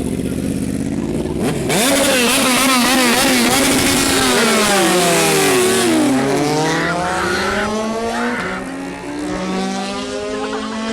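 Car engine revving hard from about two seconds in, the pitch bouncing up and down with quick blips of the throttle. The pitch then drops steeply about six seconds in, as if the car passes by, and climbs steadily again as the engine accelerates away.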